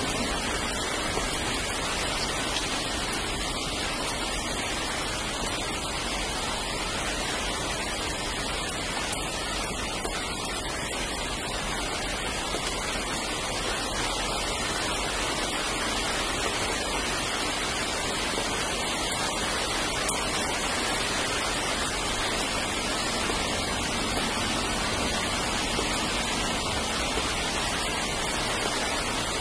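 Steady rain falling, heard as an even noise without a break.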